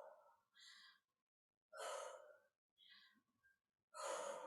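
A woman breathing hard from exertion during dumbbell squats: about four short, breathy exhales a second or so apart, with silence between them.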